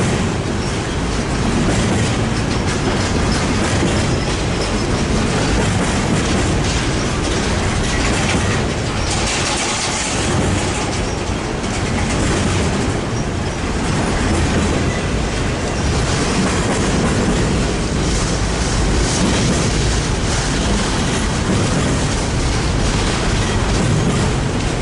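A train rolling past at trackside, steel wheels clattering over the rail joints in a loud, steady rush.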